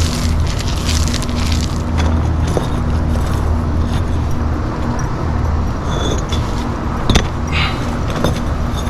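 An engine running steadily at a constant speed, with a couple of sharp knocks over it.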